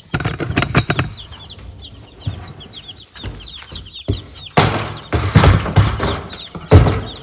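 Baby Cornish cross chicks peeping steadily in a brooder, many short high falling chirps. Loud bumps and rustling come over them a few times, the loudest near the end.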